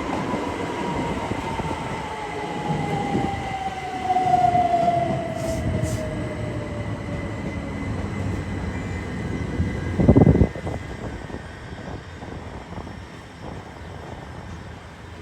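Electric passenger train running past, its motor whine falling steadily in pitch over the first few seconds, as when a train is slowing, over a steady rumble of wheels on rail. A brief loud thump comes about ten seconds in.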